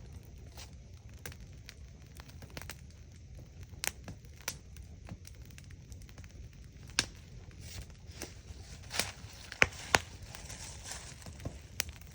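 Campfire crackling: irregular sharp pops and snaps of burning wood over a low steady rumble, with a few louder snaps in the second half.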